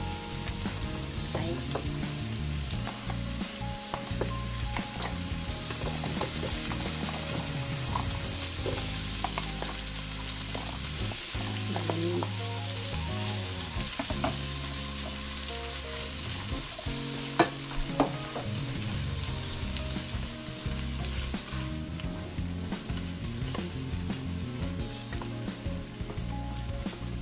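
Pre-softened chicken gizzards and hearts sizzling as they fry with onion and garlic in a nonstick pot, stirred and scraped with a silicone spatula. There is one sharp knock about two-thirds of the way through.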